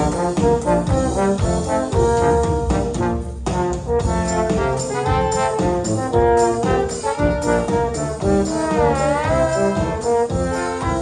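Orchestra playing a hymn tune with brass to the fore, trombones and trumpets holding sustained chords that change every second or so. About nine seconds in, one high note dips and rises in pitch.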